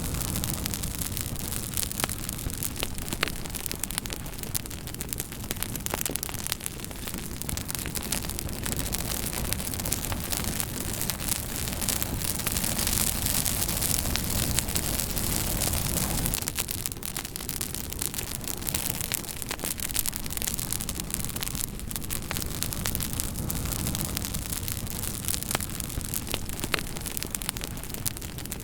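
Campfire burning: wood crackling and popping in sharp irregular snaps over a steady hiss and rumble of flames, swelling louder for a few seconds around the middle.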